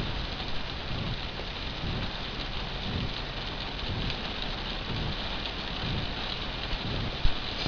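Hard rain falling, a steady hiss, with low irregular rumbling thumps about every second and a sharp knock near the end.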